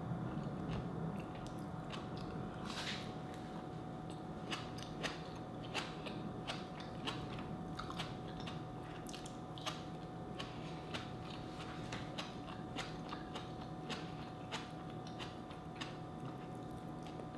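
Close-up eating sounds: chewing with crisp crunches from lightly cooked vegetables, coming at irregular intervals about every second.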